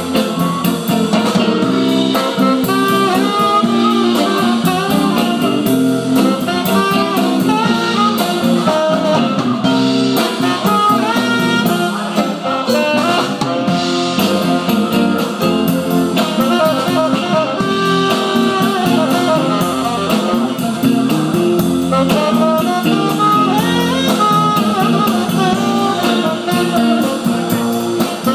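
Live band playing jazz, a saxophone carrying the melody over a drum kit keeping a steady beat.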